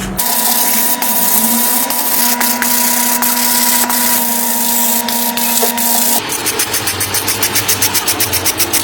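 A small motor running steadily with a hiss. About six seconds in, the sound changes to a fast, even pulsing of several beats a second.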